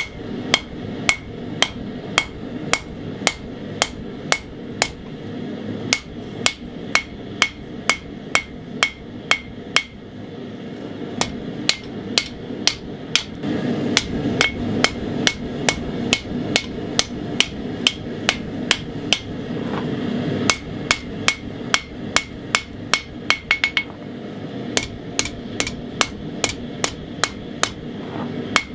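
Hand hammer forging hot 80CrV2 steel on an anvil, shaping the point of a bowie blade: steady ringing blows about two a second, with a short pause about a third of the way through and a quick run of lighter taps later on. A steady rushing noise runs underneath.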